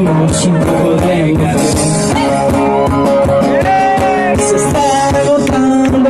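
Live band playing an instrumental passage of a rock song: guitar over percussion keeping a steady beat.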